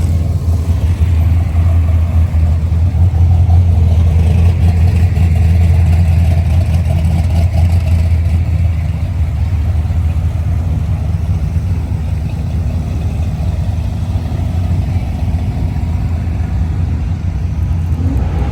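Car driving with its engine running, a steady low drone throughout.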